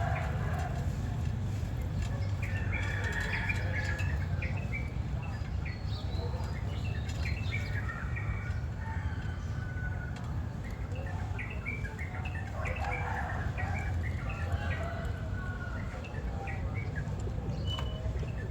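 Birds chirping in the background, many short scattered calls, over a steady low rumble.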